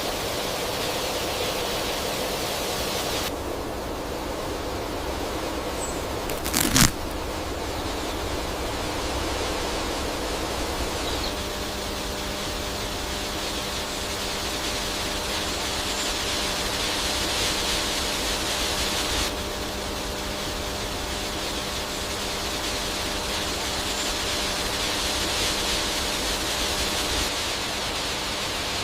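Steady background hiss whose tone shifts abruptly twice, with one sharp knock about seven seconds in and a faint steady hum through the middle.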